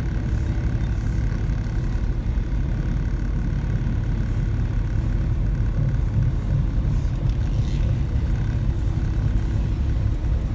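Semi truck's diesel engine running steadily while the truck drives, a constant low rumble heard from inside the cab.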